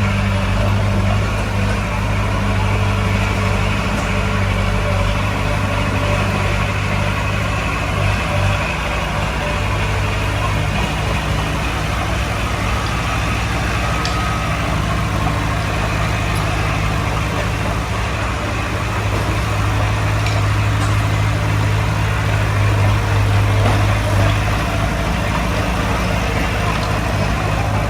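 Heavy-equipment diesel engine running steadily, a continuous low drone that grows a little louder around two-thirds of the way through.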